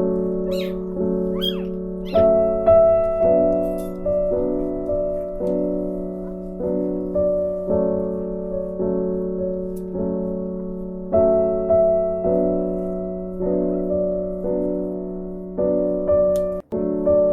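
Background piano music, a soft chord struck about once a second. A few short, high squeaks, likely from newborn puppies, come through in the first two seconds.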